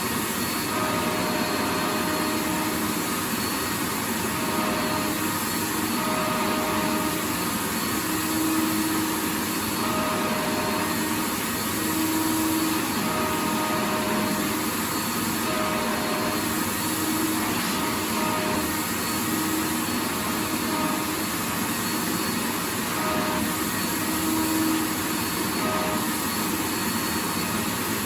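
Vacuum cleaner running continuously: a steady rushing hiss of air with a motor hum that wavers and comes and goes in short stretches.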